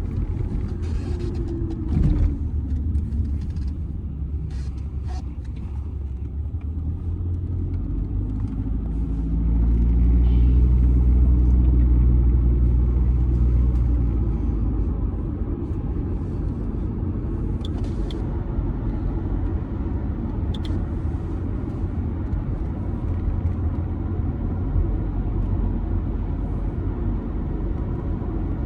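Audi A6 C6 2.0 TDI four-cylinder diesel driving with steady engine and road rumble. A thump comes about two seconds in. The engine grows louder, holding a steady pitch under acceleration, for several seconds in the middle, then settles back to a cruise.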